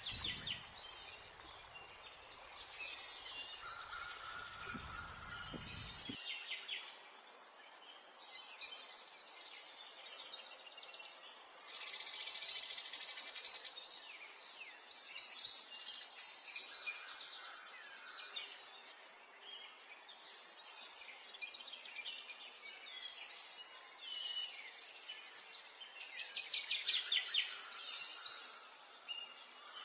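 Wild birds singing outdoors, short high chirping phrases repeating every couple of seconds. A low rumble underlies the first six seconds, then stops.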